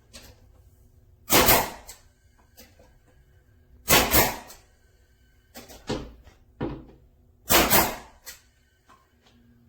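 DOTOOL 16-gauge pneumatic finish nailer firing three times, about three seconds apart, each shot a sharp bang with a short rush of air. Lighter knocks come between the second and third shots.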